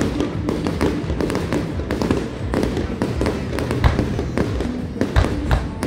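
Fireworks going off in rapid succession: a dense run of crackling pops and bangs, with a few heavier bangs in the second half.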